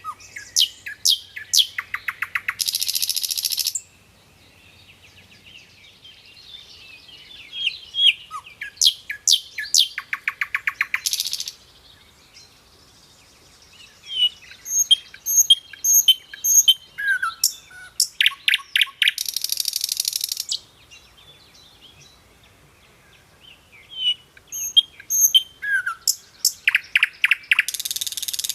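A songbird singing the same song over and over, about four times: each song starts with a few sharp whistled chirps, runs into a quick series of falling notes, and ends in a dry buzzy trill lasting a second or two. Faint high paired notes sound in between near the middle.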